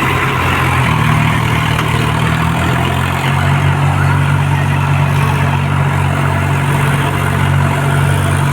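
Swaraj tractor's diesel engine running steadily, its note stepping up slightly about a second in and again about three seconds in.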